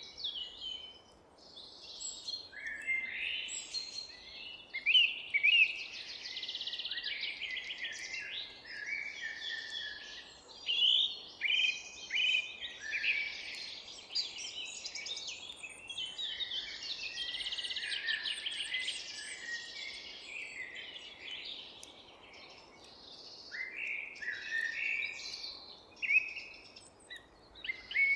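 Several songbirds singing and chirping at once, with quick trills and short falling notes overlapping throughout, over a faint steady background hiss.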